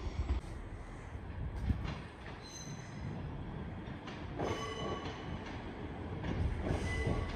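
Passenger train moving over the station tracks: a steady low rumble, with short high-pitched wheel squeals a few times.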